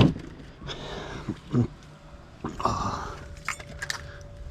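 Pieces of scrap being handled and sorted by hand: a loud knock at the start, then scattered knocks and clinks, with a faint steady tone in the second half.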